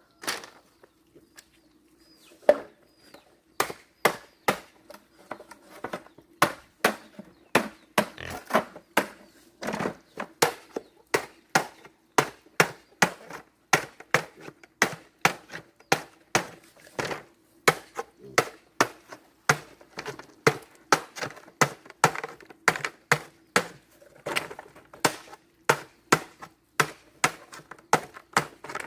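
A blade chopping in a steady rhythm, about two sharp strokes a second, each with a short crack.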